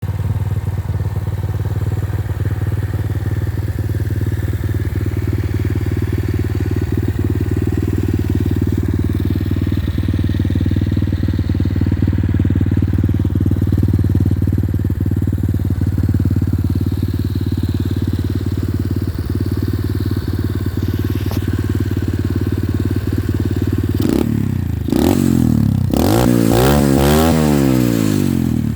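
Pit bike engine idling steadily, then revved up and down several times in quick succession near the end.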